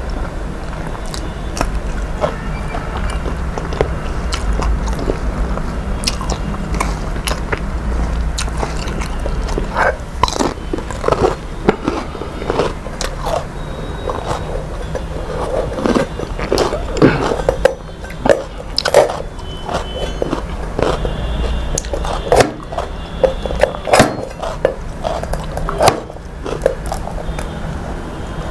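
A person chewing and biting food close to the microphone, with many short irregular clicks and crunches, over a low steady hum.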